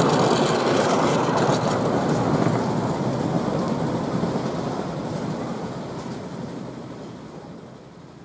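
Miniature railway train's carriages rolling past on the track, wheels rumbling with some clicking in the first couple of seconds, then fading steadily as the train runs away up the line.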